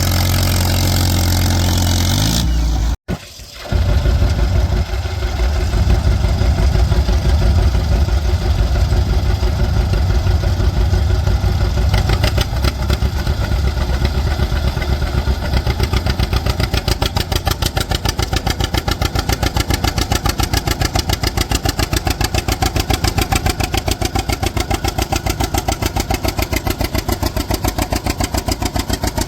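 Antique tractor engine running with a rapid, even exhaust beat. The sound drops out abruptly for a moment about three seconds in, then the engine comes back.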